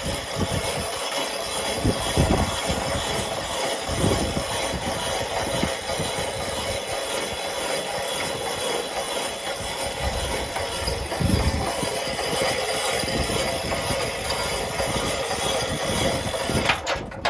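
Sawmill machinery running steadily, a constant mechanical drone with irregular low knocks and thumps.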